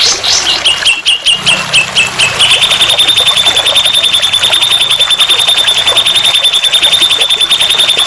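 A songbird singing from a tutor-song (masteran) recording: a few separate high notes that quicken into a long, fast, even trill.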